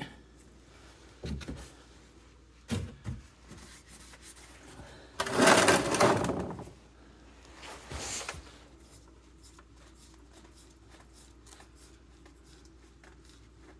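Hand tools working under a car: a few light knocks, then a louder rasping rattle for about a second and a half, and a shorter one about two seconds later.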